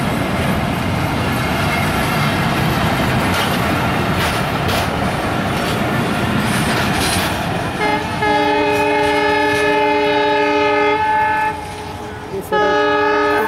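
The coaches of a Bangladesh Railway commuter train roll past, wheels rumbling and clattering over the rail joints. About eight seconds in, a train horn gives a long blast of several seconds, and a second blast starts near the end.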